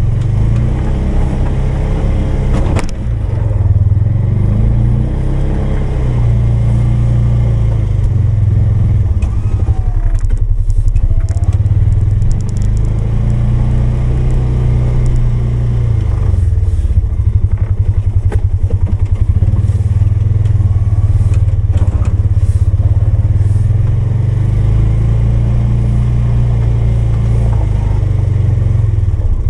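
Polaris 570's single-cylinder engine running under load while plowing snow, its pitch rising and falling repeatedly, with a few short knocks along the way.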